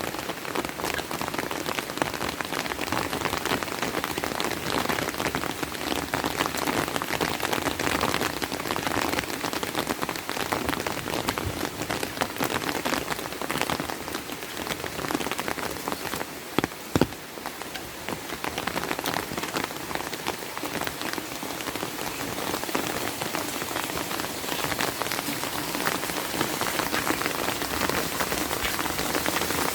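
Steady rain falling, with many individual drops ticking close by. Twice, just over halfway through, there is a brief louder knock.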